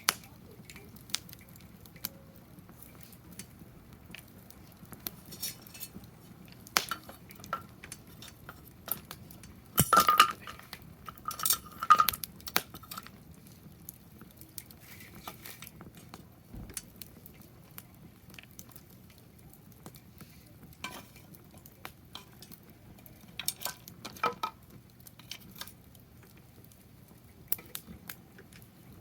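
Wood fire crackling in a fire pit stand, with scattered pops, and a few sharp ringing clinks about ten and twelve seconds in.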